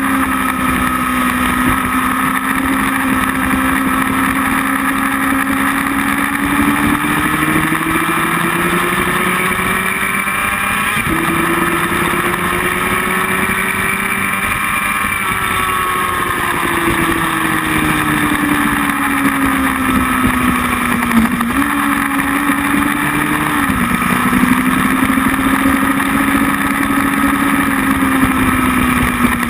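Motorcycle engine heard from on the bike at track speed. Its note climbs slowly and falls back again, with a few sudden jumps in pitch at gear changes.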